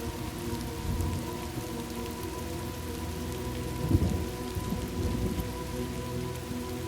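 Steady rain with low rolling thunder, one louder rumble about four seconds in.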